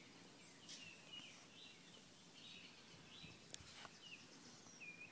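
Faint bird chirps: short, high calls every second or so, with one light click about three and a half seconds in.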